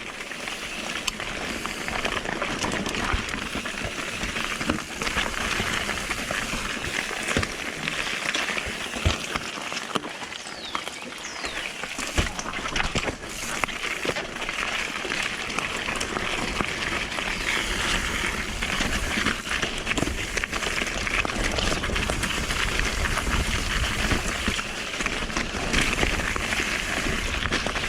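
Mountain bike riding over rough, wet rocky trail: a steady hiss of tyres on wet ground with a low rumble, broken by scattered knocks and rattles from the bike hitting rocks.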